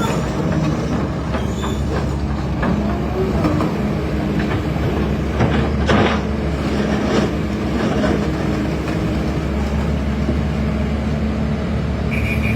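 Excavator's diesel engine running steadily under load, with a few metallic clanks and knocks about halfway through.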